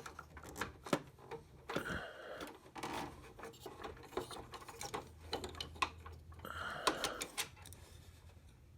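Screwdriver turning a hard-to-reach screw in a printer's plastic housing: scattered small clicks and scrapes of the tool and plastic, dying away near the end.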